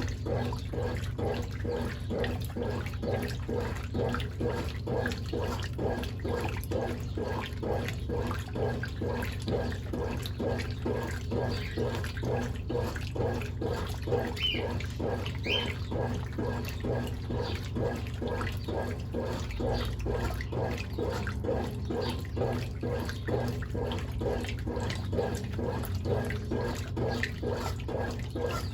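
Brastemp Ative 11 kg top-loading washing machine agitating a load in water: rhythmic sloshing and churning over the steady hum of its motor.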